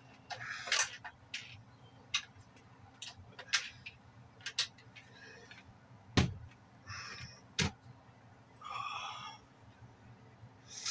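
Irregular metallic clicks and knocks of hand tools working on a machine, with a few short scraping or rustling sounds between them; the sharpest knock comes about six seconds in.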